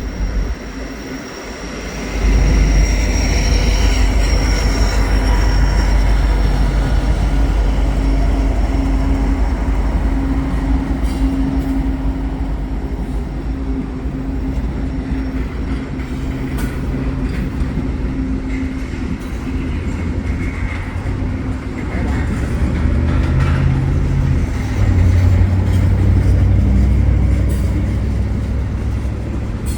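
Freight diesel locomotives, a rebuilt SD75ACC and an ES44AC, passing at slow speed: a loud, steady low engine drone with wheel and rail noise, jumping up about two seconds in and swelling again near the end.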